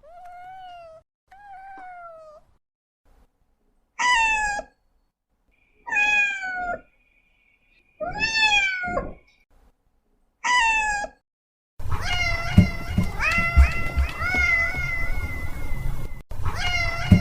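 Domestic cats meowing: a couple of soft meows, then four loud separate meows about two seconds apart, then a quick run of overlapping meows over a low rumbling noise.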